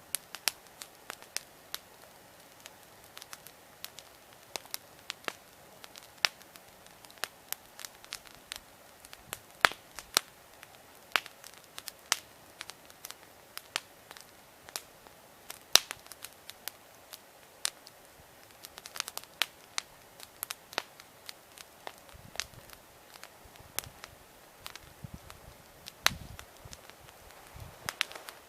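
Wood campfire crackling: irregular sharp snaps and pops, several a second, some much louder than others, over a faint steady hiss.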